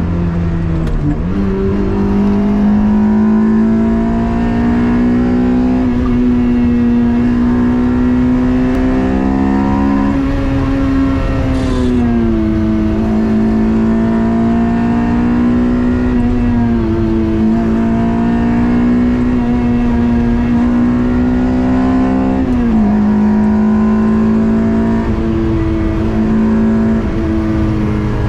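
Toyota 2ZZ-GE 1.8-litre four-cylinder engine in a mid-engined MR2 held at high revs under hard acceleration, its pitch climbing slowly and dropping back several times, about a second in, near halfway and again later, as the driver shifts or lifts.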